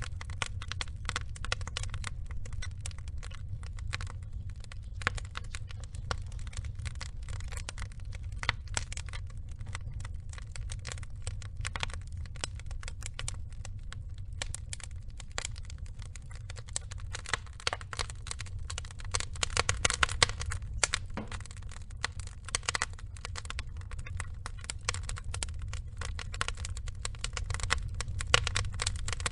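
Burning logs crackling and popping, with many irregular sharp cracks over a steady low rumble of flame. A denser, louder flurry of crackles comes about two-thirds of the way through.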